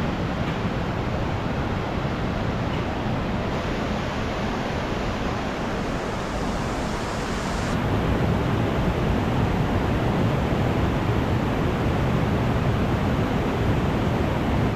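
Steady rush of water from a mountain valley stream, a little louder in the second half.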